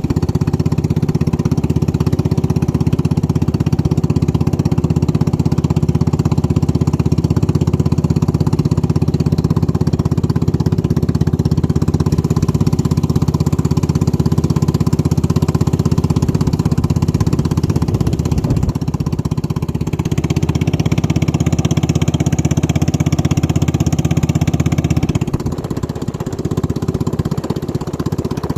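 Racing boat engine running steadily at a constant speed. A hiss joins it about two-thirds of the way through, and the engine eases slightly near the end.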